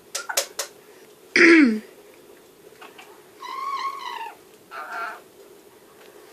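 Pet parrot vocalising: a few sharp clicks, then a loud squawk that falls in pitch, followed by a longer wavering call and a shorter one.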